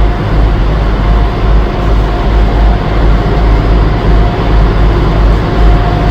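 A boat's engine running steadily, heard from inside the hold: a loud, even rumble with a faint steady whine above it.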